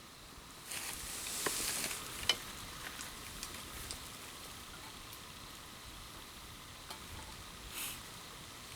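Sizzling over a campfire: a hiss that swells sharply about a second in and settles to a softer sizzle, with scattered sharp pops and crackles and another brief flare of hiss near the end.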